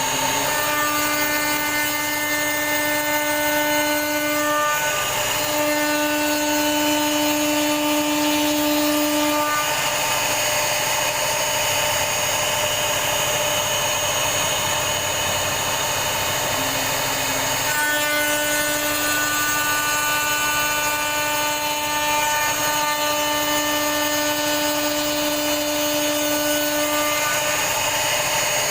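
CNC router spindle cutting a door design into wood or MDF: a continuous hiss with a pitched whine. The whine drops out for about eight seconds in the middle, then returns.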